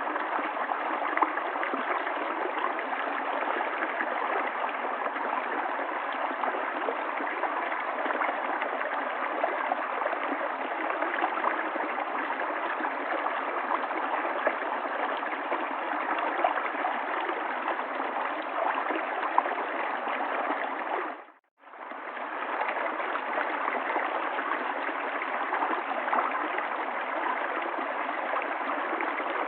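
River water flowing steadily over stones, a continuous rushing and babbling. About two-thirds of the way in it fades out to near silence for under a second and then comes back.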